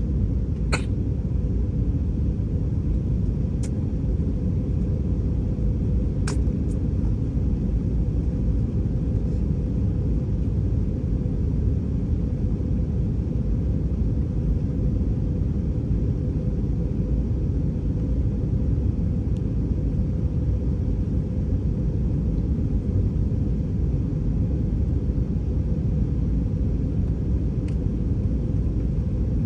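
Airbus A320 cabin noise: a steady low rumble of engines and airframe heard from a passenger seat, with a few faint clicks.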